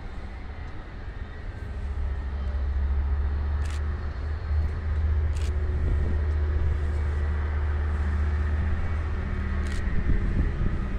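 Trains approaching: a low, steady rumble that swells about two seconds in and holds, with a few sharp clicks.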